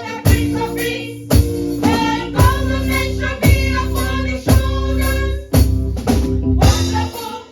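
A church choir singing a Christmas praise song with a band: drum kit beating about once a second under the voices, with guitar.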